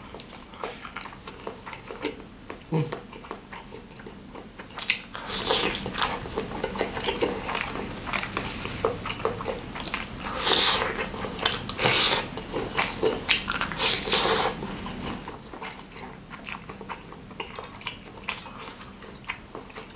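Close-miked eating of a sinewy bakso urat meatball from spicy noodle soup: wet biting and chewing, loudest in a run of bursts in the middle.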